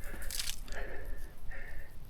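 Footsteps crunching in beach sand, about three steps at an even walking pace, with a short scuff of sand near the start.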